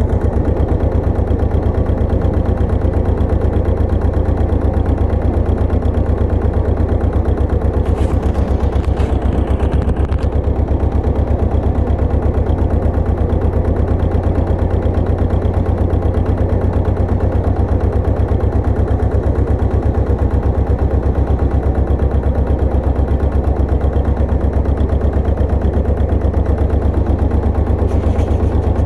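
Pasquali 980 EX two-wheel tractor's engine running steadily under load while driving a rotovator, a loud, even, rapid chugging with a deep low drone. Brief rustling or clattering sounds come in about eight seconds in and again near the end.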